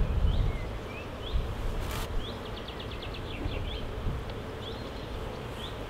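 Honeybees buzzing steadily over an open hive while a metal hive tool scrapes wax off the wooden frame top bars, with a sharp scrape and a quick run of ticks about two seconds in.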